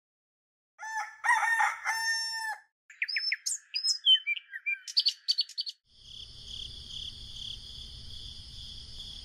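A rooster crows once, then birds chirp in quick sharp bursts for about three seconds. About six seconds in, a steady high-pitched pulsing buzz sets in.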